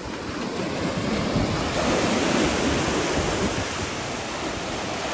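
Ocean surf: a wave breaking and rushing in, the wash of water swelling about a second and a half in and then easing off.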